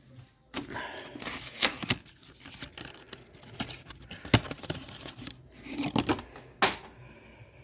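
Packaging of a new oil filter being torn open and crinkled, with irregular rustling and scattered sharp clicks and knocks.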